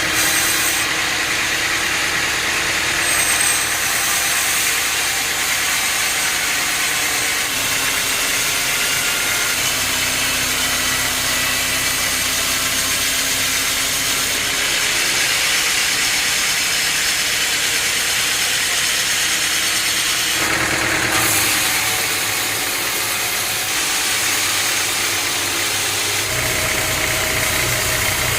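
Heavy sawmill machinery engines running steadily, the mix of tones changing abruptly a few times.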